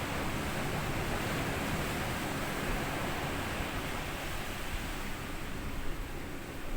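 Small sea waves washing up and back on a sandy beach, a steady hiss of surf that softens a little in the second half.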